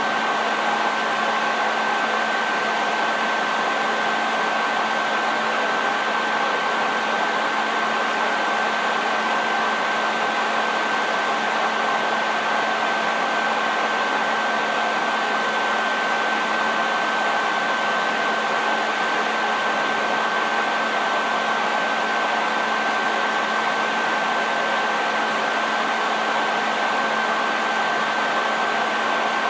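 Hair dryer running continuously at constant speed: a steady airy rush with a fixed high whine from the motor and fan.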